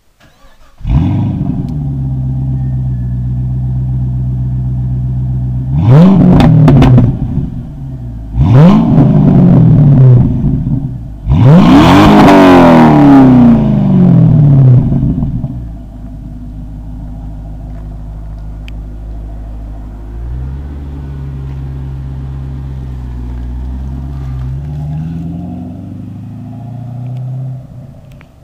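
A 5.7 L LS1 V8 with an aftermarket performance exhaust starts about a second in and idles. It is then revved three times, the third rev the longest and loudest, and settles back to idle.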